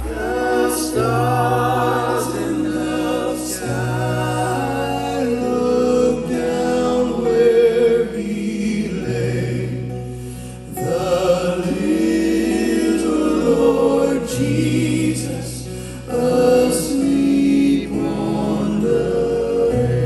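Live gospel choir singing a Christmas song with band accompaniment. Held notes sung with vibrato over long sustained bass notes that change every few seconds.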